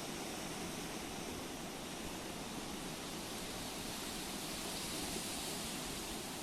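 Sea waves breaking and washing on the shore: a steady rushing, swelling slightly about five seconds in.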